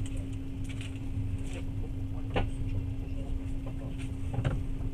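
Passenger train running, heard from inside the carriage: a steady low rumble with a steady hum, and two sharp knocks, about two and a half seconds in and again near the end.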